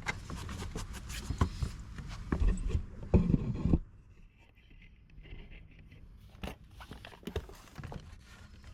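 Reciprocating saw cutting into deck wood with a rough, rattling scrape, stopping about four seconds in; then only faint scrapes and knocks from the blade and wood being handled.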